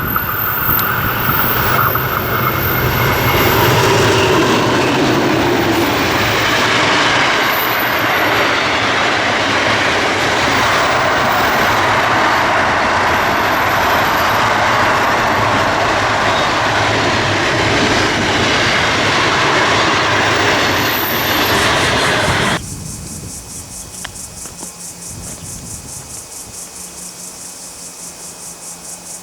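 Freight train passing at close range, its wagons running steadily over the rails. About 22 seconds in the sound cuts off abruptly to a much quieter background with a fast, even, high-pitched pulsing.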